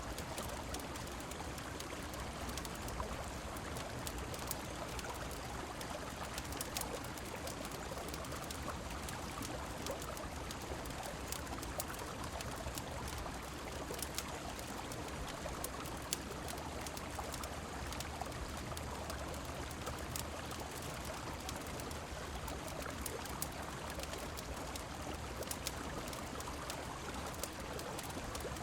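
Steady rush of a river and falling rain, with scattered sharp crackles from a wood fire mixed in.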